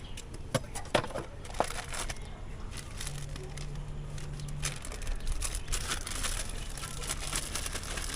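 Plastic bag crinkling and rustling, with a few sharp clicks in the first two seconds and denser crackling in the second half.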